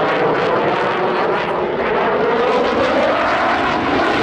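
Eurofighter Typhoon jet engines at high power as the fighter pulls up, a loud continuous jet rush whose pitch wavers and slides as it moves.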